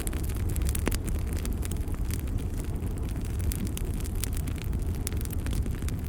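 Wood fire burning in a fireplace: frequent small, irregular crackles and pops over a steady low rumble of the flames.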